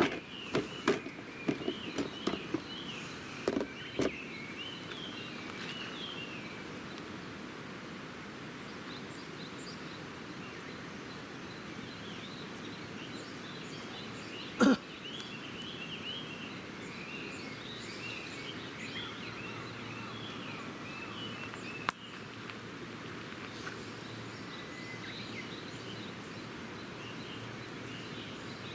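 Small birds twittering and chirping over a steady outdoor hiss, with a few sharp pops near the start, a single knock about halfway through and a faint click later on.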